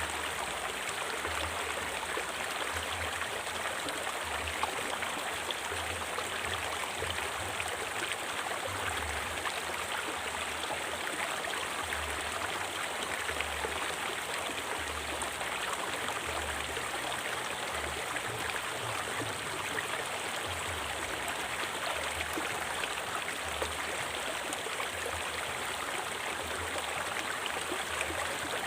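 River water flowing steadily, an even rush with uneven low rumbling underneath.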